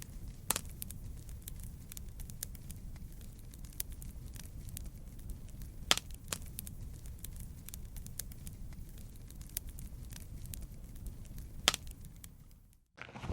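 Wood campfire crackling: a steady low rumble of flame under irregular small snaps, with three louder pops, about half a second in, about six seconds in and near the end.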